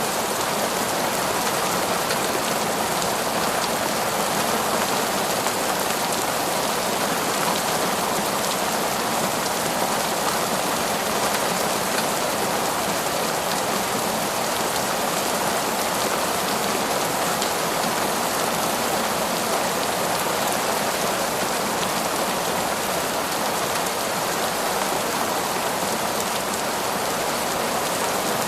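Heavy, steady rain pouring down without let-up, an even dense hiss of drops.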